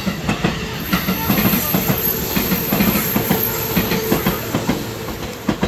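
JR West 221 series electric commuter train passing close by on the adjacent track: a rapid run of wheel clicks over the rail joints over a steady rumble, fading as the last cars go by near the end.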